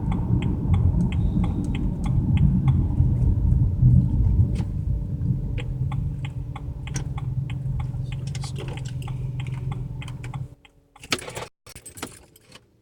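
BMW 335i turbocharged straight-six running roughly with a light, regular ticking, misfiring from a cylinder that the owners suspect is being flooded by a stuck-open injector. About ten seconds in the engine sound stops, and a few brief clattering knocks follow.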